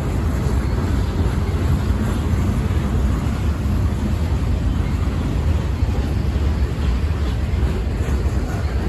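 Freight train rolling past, a steady rumble of wheels on rails.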